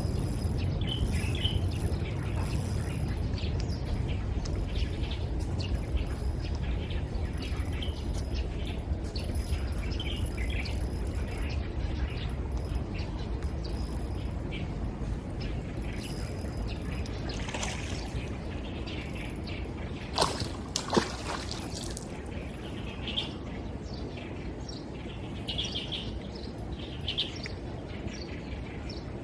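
Small birds chirping on and off over a steady low background rumble, with a couple of sharp clicks about twenty seconds in.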